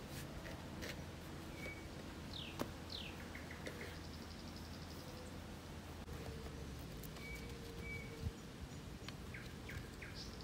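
Small birds chirping in the background, with two quick falling whistles about two and a half seconds in and several short trills scattered through. There are a few faint clicks as well.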